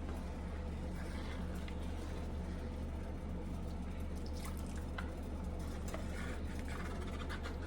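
A utensil stirring milk and heavy cream in a saucepan: soft liquid swishing with light scattered clicks and scrapes against the pan, over a steady low hum.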